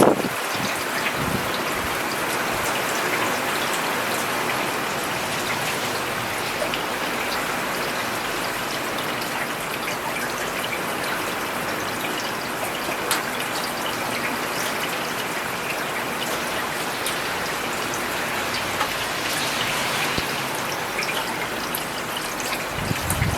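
Steady rain falling on a paved road, a continuous even patter with scattered individual drop impacts. A brief low rumble comes right at the end.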